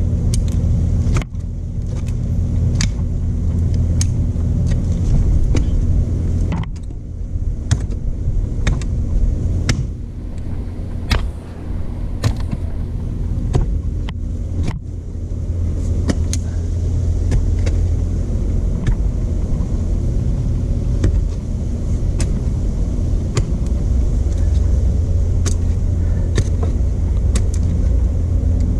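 A stump grinder's 13 HP Honda single-cylinder engine running steadily under load, with many sharp ticks over the drone and two short dips in level, about a third and half of the way through.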